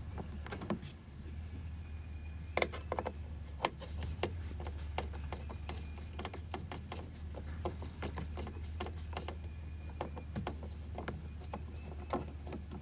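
Scattered small clicks, ticks and scrapes of hand work on a car's plastic interior door trim and its screws, over a steady low hum.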